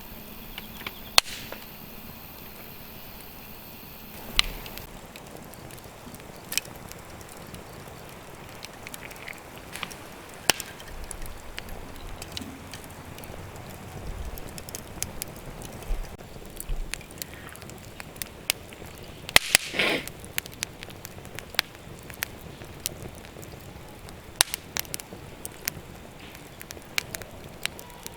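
Firewood burning in a campfire stand, crackling with irregular sharp pops and snaps over a low steady hiss; a cluster of louder snaps comes about two-thirds of the way in.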